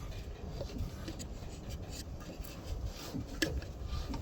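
Faint rubbing and scraping of hands working on the Deutz air-cooled diesel engine as it is moved round to reach the next nut, with a short sharp click about three and a half seconds in.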